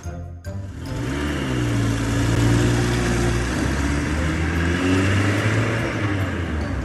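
Car engine sound effect: an engine revs up about a second in, then runs at a fairly steady pitch with slight dips, and stops at the end.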